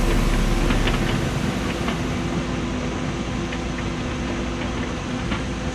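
Cat 314e excavator's diesel engine running steadily under working load, with a few faint knocks scattered through.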